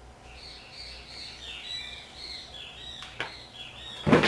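A bird chirping in a quick run of short calls, with a light click about three seconds in and a louder thud near the end as a mousepad is handled.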